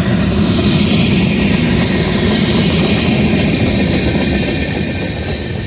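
Freight train cars rolling past on the rails, a loud, steady rumble with a higher rail hiss over it.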